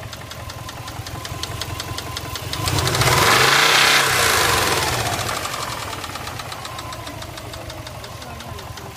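Subaru EJ206 flat-four engine running with a steady, rhythmic knock. A louder rush swells about three seconds in and fades over the next few seconds.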